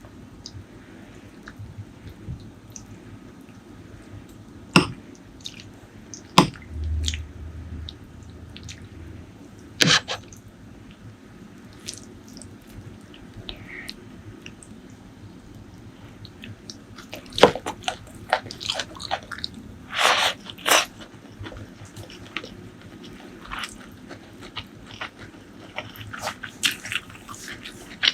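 Close-miked eating sounds: chewing and biting, with scattered sharp wet clicks and smacks that come sparsely at first and grow more frequent in the second half.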